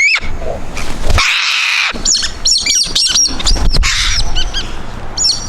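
Parrots calling: a harsh screech about a second in and another shorter one near four seconds, with quick chirps that rise and fall between them and a few sharp clicks.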